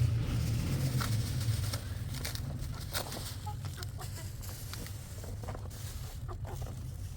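Chickens clucking in short scattered calls, over a low rumble that is loudest at the start and eases off within the first two seconds.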